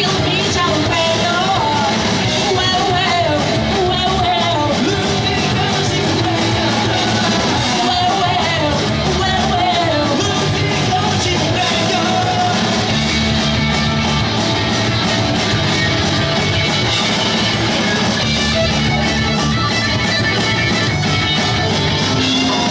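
Pop-punk band playing live: distorted electric guitars, bass and drums, with a sung vocal line over the first half.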